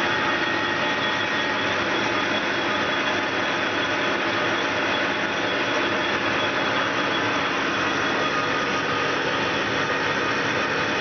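Machine tool running steadily on a final cut in cast iron with coolant flowing: a loud, even hiss with faint steady whine tones.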